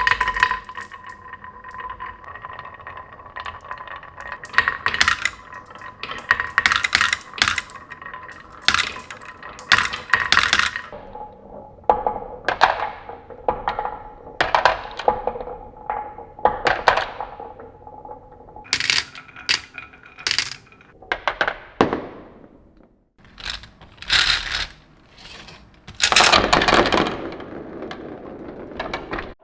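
Small hard plastic toys knocking and clattering in a long run of sharp clicks and thunks, over a steady electric hum from a toy's motor. The hum changes pitch about halfway through.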